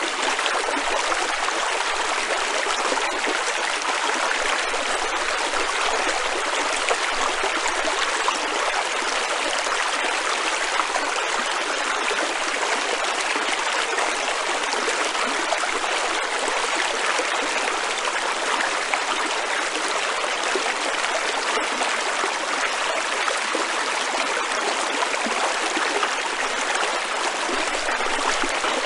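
A stream running steadily, a continuous rushing of water with no break.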